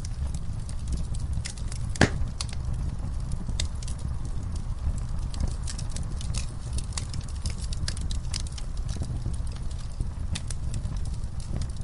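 Wood fire burning with a steady low rumble and irregular crackling, one louder pop about two seconds in.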